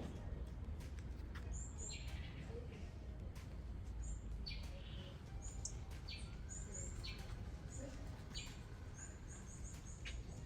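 Small birds calling: many short, high chirps repeated over and over, mixed with brief rasping notes, over a steady low background rumble.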